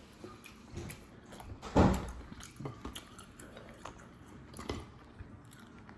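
Close-miked chewing and mouth smacking while eating boiled crawfish, with scattered small clicks from handling the shells. The loudest sound is one sharp smack about two seconds in.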